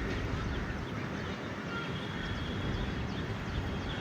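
Outdoor background noise: a steady low rumble with faint, short bird chirps over it.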